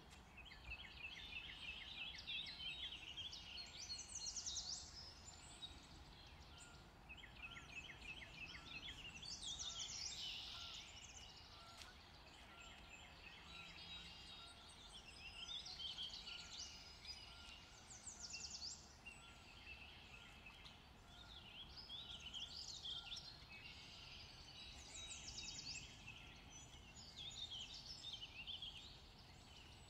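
Faint birdsong: small birds chirping in repeated phrases of quick notes and rapid trills every few seconds, over a low steady background rumble.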